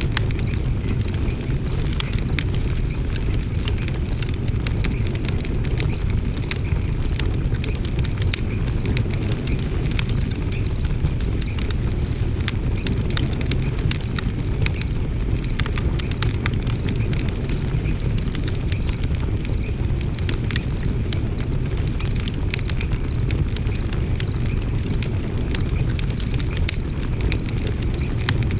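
Wood fire burning in a Macrite fire pit, crackling and popping with frequent sharp snaps over a steady low rumble.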